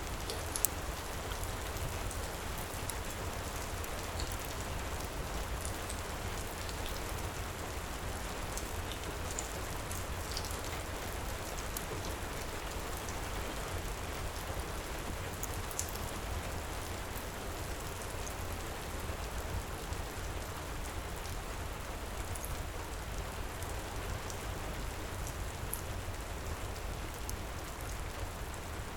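Steady heavy rain pouring, with a low rumble underneath and scattered sharp crackles and pops of a wood fire in a fireplace.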